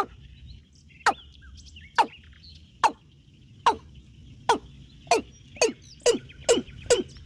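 A bird calling: a series of short, sharply falling notes, about one a second at first and quickening to roughly three a second near the end. A faint steady insect-like drone runs underneath.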